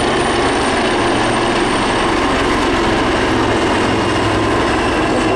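Steady, loud drone of a low mixed formation of navy helicopters and a Fairey Swordfish biplane flying past, engines and rotors blended together.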